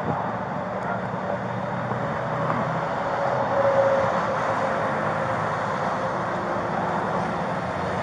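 Steady freeway traffic noise, a continuous hum of passing vehicles, swelling briefly as one vehicle goes by about four seconds in.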